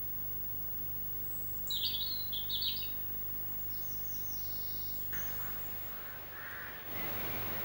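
A bird chirps several quick times about two seconds in, over a steady low hum and hiss of outdoor background that turns noisier near the end.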